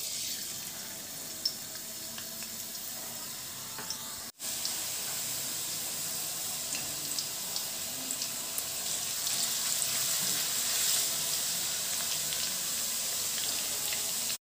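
Chopped ginger frying in hot coconut oil in a wok: a steady sizzle with small crackles and pops. The sound breaks off for an instant about four seconds in, then carries on slightly louder.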